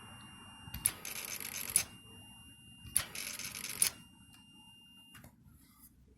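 The starting system of a 2006 Suzuki C90 Boulevard is tried twice, each about a second: a click, a high rattling buzz, then a click as it stops. The engine does not catch, and the bike still won't start after a new stator and spark plugs.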